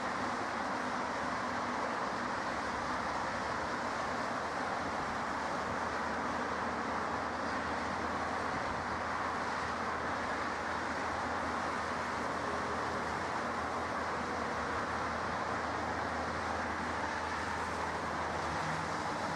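Steady jet engine noise from aircraft at the airport, an even roar that neither rises nor falls.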